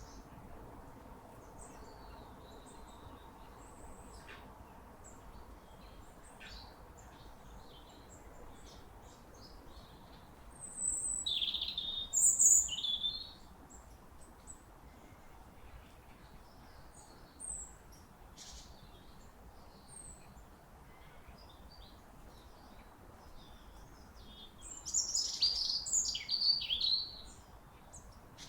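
Wild birds calling: scattered short, high chirps and brief song phrases, with a louder flurry about halfway through and another near the end, over a faint steady background hum.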